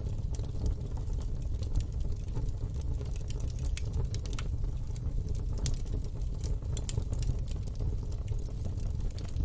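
Wood fire in a fire pit crackling: irregular sharp pops and snaps over a steady low rumble.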